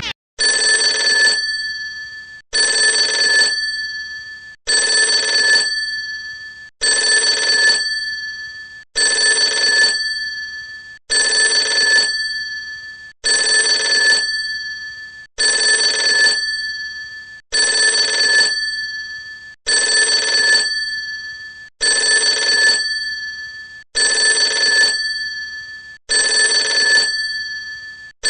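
School bell ringing in repeated short bursts, about one every two seconds, thirteen times. Each ring starts loud with a fast rattling strike and fades over a second or so.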